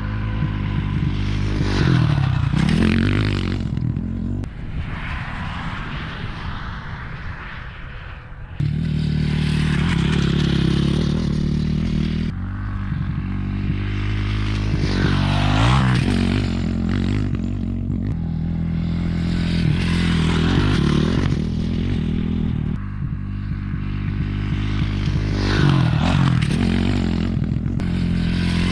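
Dirt bike engine under way, revving up and easing off again and again. It eases off for a few seconds, then picks up sharply about eight and a half seconds in.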